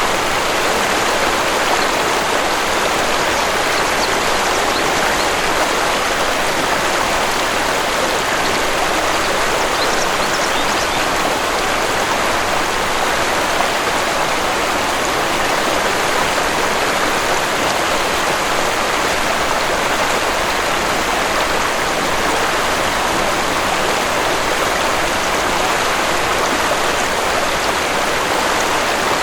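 Waterfall: water rushing and splashing in a steady, even stream.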